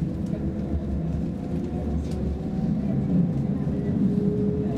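Interior running noise of a Roslagsbanan X10p electric multiple unit travelling at speed: a steady low rumble of wheels on track, with a faint steady humming tone above it.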